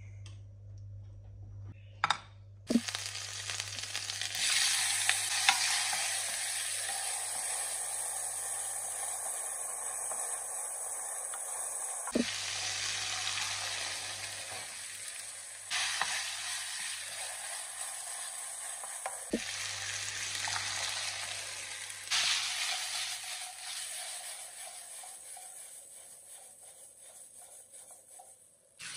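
Cherry tomatoes and chopped mortadella frying in olive oil in a pan: a steady sizzle that starts about three seconds in after a couple of sharp clicks. It breaks off and starts again several times, then fades near the end as the orecchiette are stirred through the sauce.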